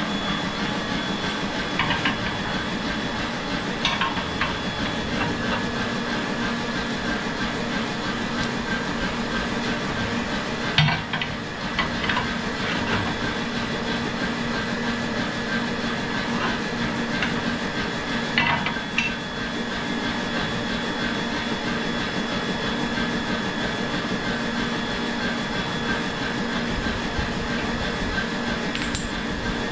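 Steady drone of workshop machinery running, with a few sharp metal knocks and clinks scattered through it.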